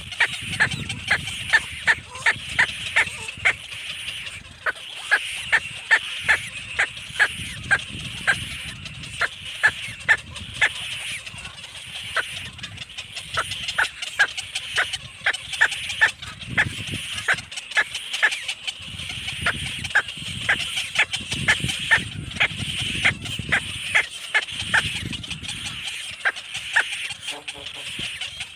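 Baby bird chirping, a steady run of short, sharp chirps about two or three a second, over a low rumble.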